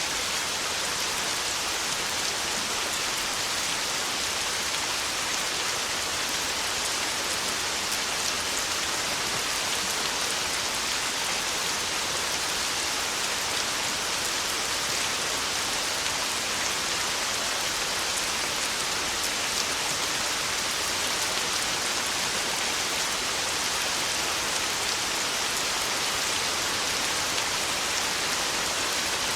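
Heavy rain pouring steadily, a dense even hiss of drops with no thunder.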